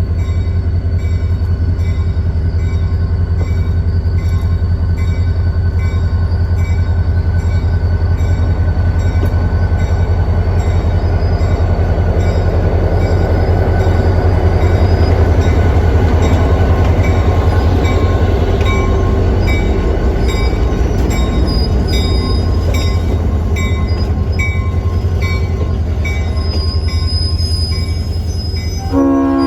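Diesel locomotive and train moving past close by, a loud, steady low engine rumble with faint regular clicking from the wheels. A horn begins to sound right at the end.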